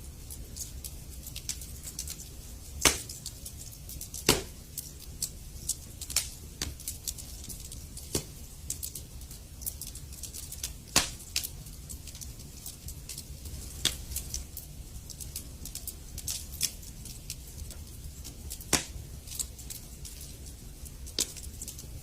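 Wood fire crackling in a fireplace: irregular sharp pops and snaps over a low, steady rumble of the flames, with a few louder pops.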